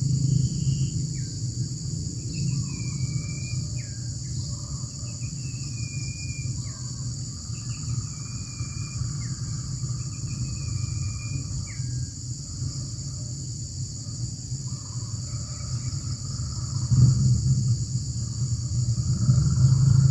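A bird calling over and over, about five similar calls roughly two seconds apart, each ending in a drop in pitch. Under it runs a steady high drone of insects and a low rumble that grows louder near the end.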